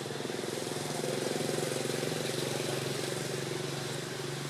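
An engine running steadily, growing louder about a second in and easing slightly near the end.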